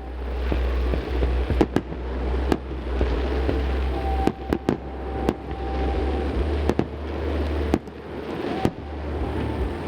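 Fireworks display: about a dozen irregular sharp bangs from aerial shells over a continuous low rumble and crackle, the booms echoing off the surrounding mountains.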